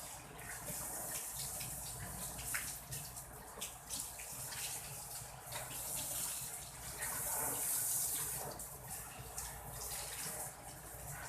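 Water spraying from a hose during a car wash: a steady hiss that swells about seven seconds in, with scattered splashes and knocks.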